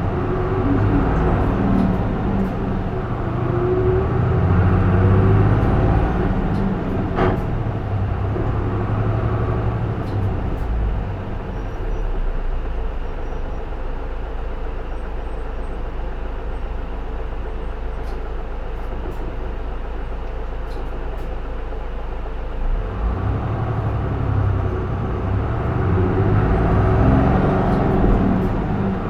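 J-Bus PKG-LV234L2 city bus diesel engine heard from inside the cabin, pulling hard under load. In the middle it falls back to a lower, quieter note for about ten seconds, then pulls hard again for the last few seconds.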